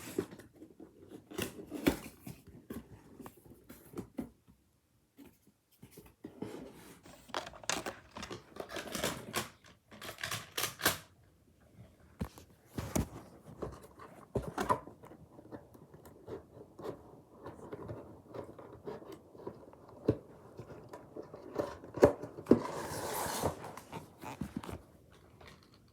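A cardboard toy box being opened by hand: irregular scraping, tearing and rustling of cardboard and packing, with scattered clicks and knocks, and a longer, louder rustle near the end.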